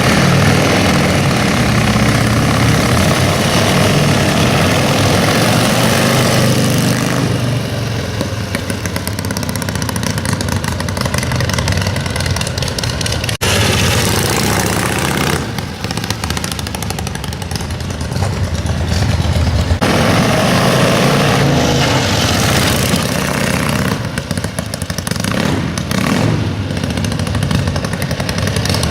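Indian Big Base Scout 648 racing motorcycle's V-twin engine running, alternately revved up and let back down toward idle several times.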